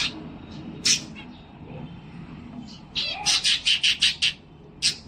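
Cockatiel calling: one sharp chirp about a second in, then a quick run of about six loud chirps about three seconds in, and one more near the end.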